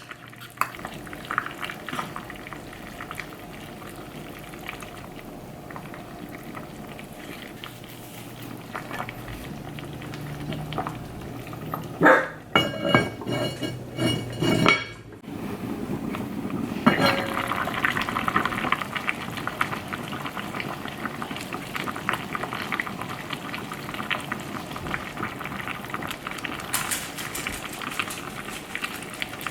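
Food bubbling and sizzling in a pot or pan, with light clinks of utensils. About halfway through there is a louder stretch of a few seconds with a steady humming tone, and after it the crackling gets denser.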